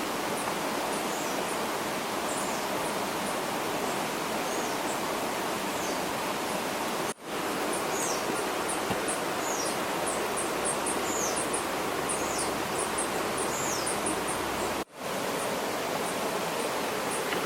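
Steady rush of flowing water with small birds calling over it in short high chirps and falling whistles. The sound cuts out briefly twice, about seven and fifteen seconds in.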